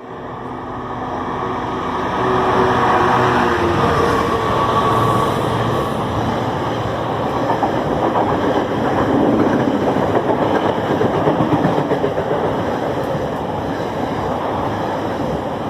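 A train running on the rails, a dense steady rumble that grows louder over the first few seconds and then holds.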